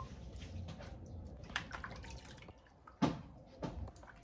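A few scattered light knocks and taps, the loudest about three seconds in, over a faint low hum.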